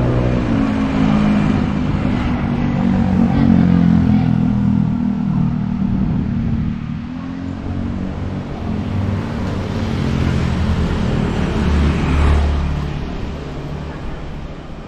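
Street traffic: motor-vehicle engines passing close by, one rising and falling in pitch through the first half, another swelling up about twelve seconds in and then fading away.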